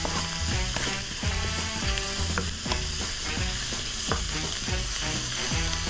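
Okra and spices frying in oil in a nonstick pan, sizzling steadily while a wooden spatula stirs them, with an occasional scrape or knock of the spatula against the pan.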